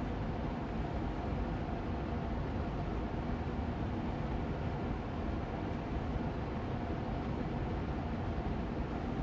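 Austin Air Allergy Machine air purifier fan running steadily on medium speed: an even rush of air with a faint hum underneath.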